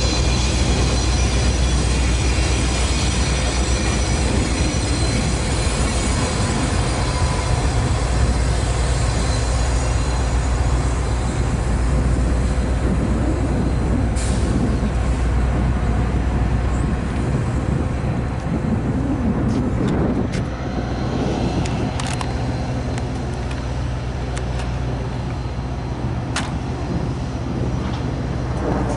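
Train running by out of shot: a loud, steady low rumble with high, steady squealing tones that fade out in the first third. A few sharp clicks come in the second half as the rumble eases a little.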